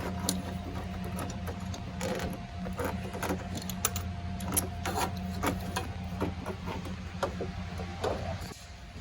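A machine's steady low hum with many irregular clicks and ticks over it, cutting off about half a second before the end.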